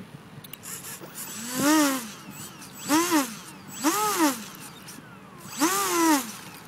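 Electric ducted fan's brushless motor throttled up and straight back down four times, each a short whine rising and falling in pitch within about a second, with a rush of air.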